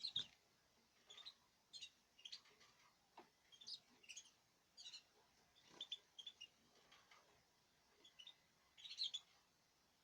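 Small cage bird chirping: short, high-pitched calls repeated irregularly, a dozen or so, loudest at the start and again near the end.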